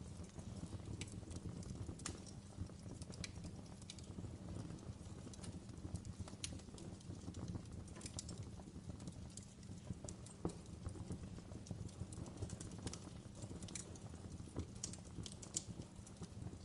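Wood fire crackling in a fireplace: irregular sharp pops and snaps, several a second at times, over a steady low rush of the burning fire.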